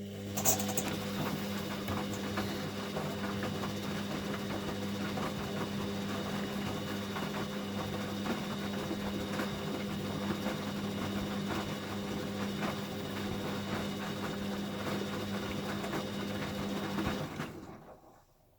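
Hoover Baby washing machine running in its final rinse: a steady electric motor hum over a busy rattle, cutting out about seventeen seconds in.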